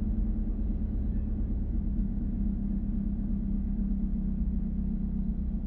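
2014 GMC Terrain's Ecotec four-cylinder engine idling steadily on fresh spark plugs after a misfire repair, with a faint tick about two seconds in; the owner feels something is still not right with it.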